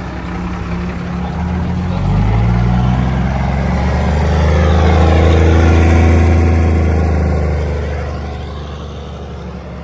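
Diesel pickup truck engine pulled hard under load. It revs up from about a second and a half in, is loudest around the middle, then backs off and fades in the last couple of seconds.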